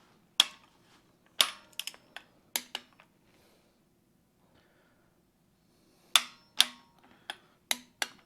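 Click-type torque wrench on the Allis-Chalmers C cylinder head bolts, giving sharp clicks as each bolt reaches its set torque in a final tightness check. About seven clicks come in the first three seconds, then a pause, then five more from about six seconds in.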